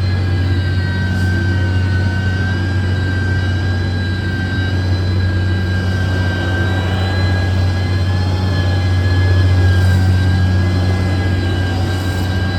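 Heavy road-construction machine's diesel engine running steadily, a deep hum under a high whine that wavers slightly in pitch, swelling a little near the end.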